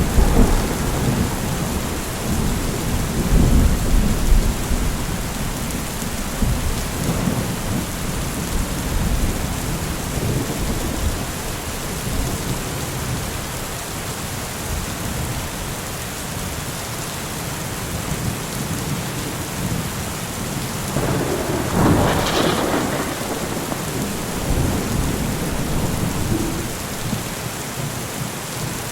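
Steady rain falling, with rolls of thunder: a loud low rumble dying away at the start, another about four seconds in, and a sharper peal of thunder about three quarters of the way through.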